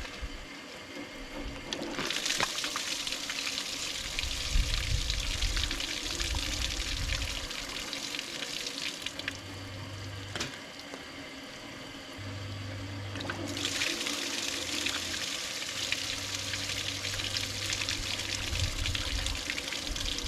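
Water running through a Ford 8N tractor's radiator and pouring out of the unhooked bottom hose as the rusty radiator is flushed clear. It starts about two seconds in, eases off around nine seconds, and comes back strongly a few seconds later.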